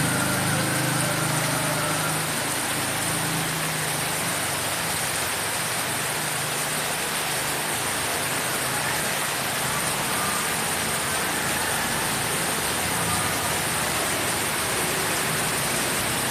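Heavy rain falling steadily, with the low hum of an idling vehicle engine underneath, strongest in the first few seconds.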